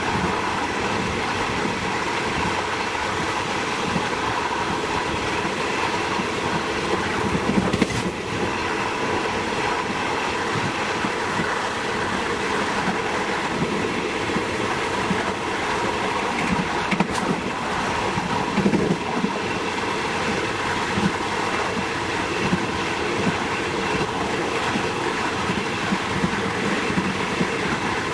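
Diesel train running along the track: a steady rumble of wheels on rail, with a couple of sharp clicks along the way.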